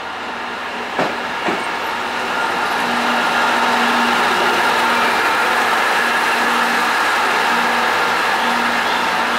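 KiHa E130-500 series diesel railcar pulling into a station platform and passing close by, its diesel engine and rolling wheels growing louder over the first few seconds and then running steadily. Two sharp knocks come about a second in.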